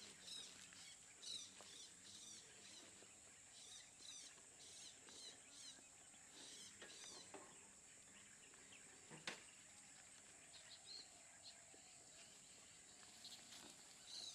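Near silence: faint outdoor ambience with small bird chirps scattered through it and a single soft click about nine seconds in.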